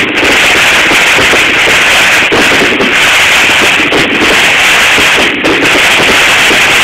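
Fireworks going off in a dense, unbroken barrage, a loud continuous crackling roar that overloads the phone's microphone.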